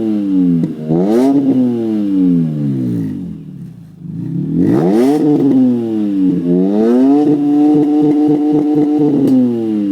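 BMW M3 engine revving through a Gruppe M aftermarket exhaust: a quick blip about a second in that falls away, a second blip about five seconds in, then a rev held steady for about two seconds before dropping back near the end.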